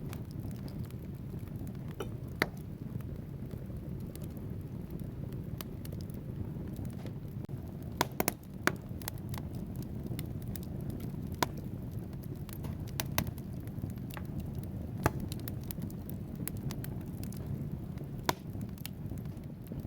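Wood fire burning in a fireplace: a steady low rumble of flames with scattered sharp crackles and pops from the logs, a quick cluster of pops about eight seconds in.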